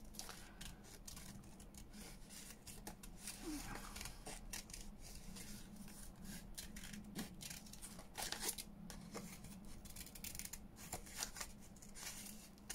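Small scissors snipping paper in many quick, irregular cuts while fussy-cutting around a printed image.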